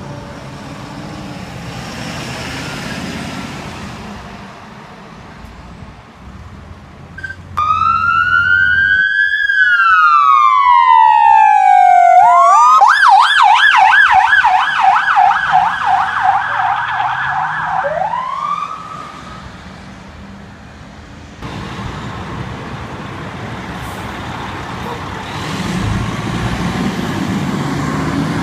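An emergency vehicle's electronic siren: a slow rising and falling wail, then a fast yelp going up and down about four times a second for roughly five seconds before it cuts off. Vehicle engine and traffic noise run under it before and after.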